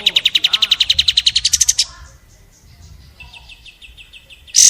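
Songbird singing a fast trill of repeated high notes, about a dozen a second, that breaks off about two seconds in; a softer trill follows and loud sharp notes start at the very end. A bird-song training recording (masteran) of konin song with kapas tembak phrases.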